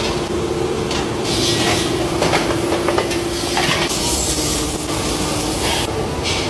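Metalworking machinery running with a steady hum, with repeated bursts of hissing.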